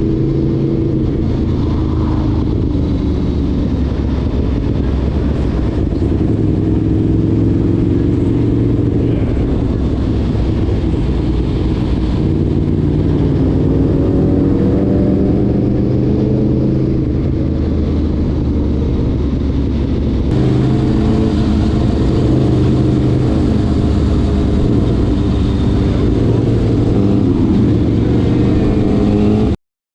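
Motorcycle engine running under way, its note rising and falling slowly with speed, a little louder from about twenty seconds in, and cutting off abruptly near the end.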